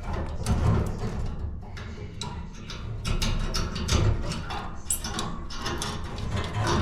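Irregular clicks and light knocks of hands working with tools and parts, over a low steady rumble.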